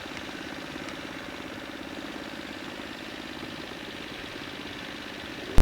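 An engine idling steadily, a low even hum, ended by a sharp click right at the end.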